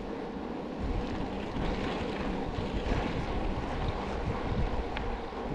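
A vehicle driving along a road: steady engine and road rumble with wind noise on the microphone.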